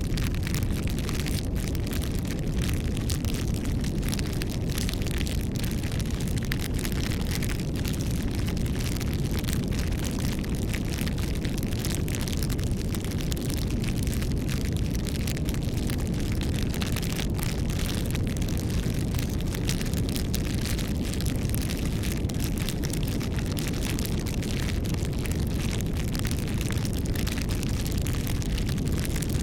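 Campfire burning: a steady low rumble of flame with frequent small crackles and pops from the burning wood.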